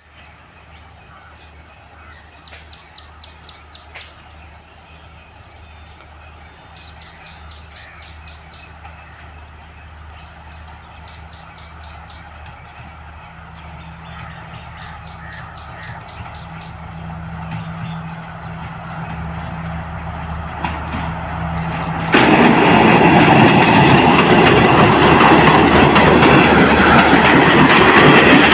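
A train approaching along the track, its low engine hum slowly growing louder, then suddenly loud about three quarters of the way through as it comes alongside and runs past. In the quieter first part, a bird calls several times in quick runs of high chirps.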